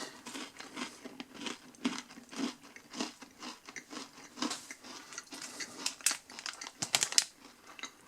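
Chewing mouthfuls of a dry, crunchy Nature Valley Crunchy Oats & Honey granola bar, with irregular crisp crunches several times a second.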